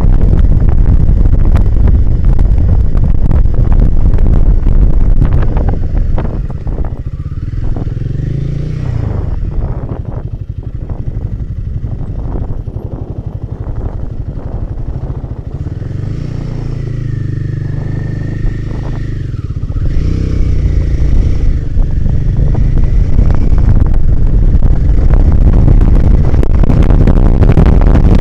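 Royal Enfield Himalayan 450 motorcycle's single-cylinder engine running on a trail ride, with wind blasting the microphone. About six seconds in it drops quieter as the bike slows and the engine note comes through steadily. Around twenty seconds in the wind and engine grow loud again as it picks up speed.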